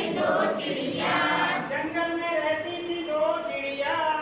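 A group of voices singing a Hindi counting song in unison, a chanted, rhythmic melody.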